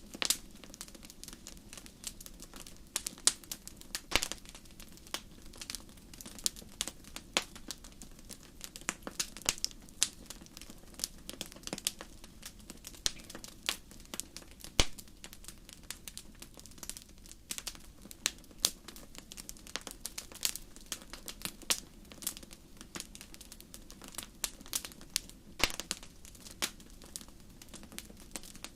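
Campfire crackling: irregular sharp pops and snaps over a faint low hum.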